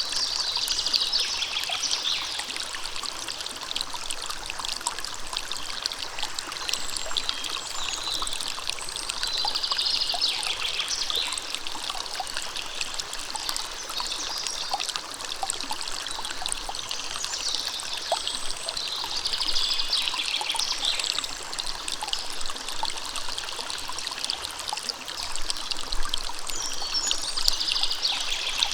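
Small river or stream running and trickling in a steady rush. A brief higher-pitched phrase stands out about every nine seconds.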